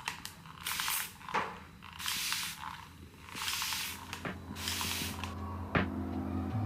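Four short hissing bursts, each about half a second long and roughly a second apart, with a few light clicks between them. Soft music comes in near the end.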